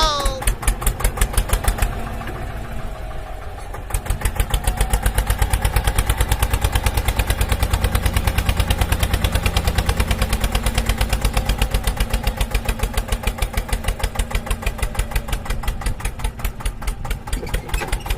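Tractor engine chugging with an even beat. It runs slower and softer at first, picks up speed and gets louder about four seconds in, and slows again near the end.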